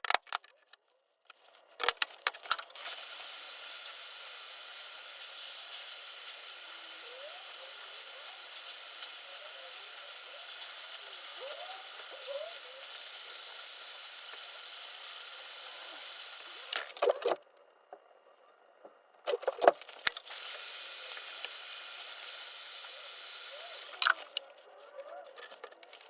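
A steady hiss of blowing air, running for about fourteen seconds, stopping, then running again for about four seconds, with a few sharp clicks around the stops and starts.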